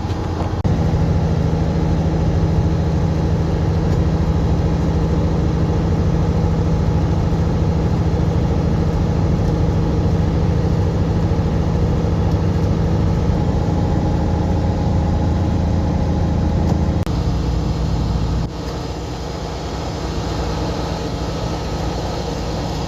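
Semi-truck diesel engine running steadily at a constant low drone while driving. About seventeen seconds in the engine note changes, and a moment later the sound gets quieter.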